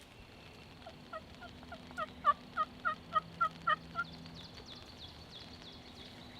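A run of about a dozen turkey yelps at roughly four a second, swelling in loudness and then tapering off. Afterwards a small bird's quick, high, falling chirps repeat faintly.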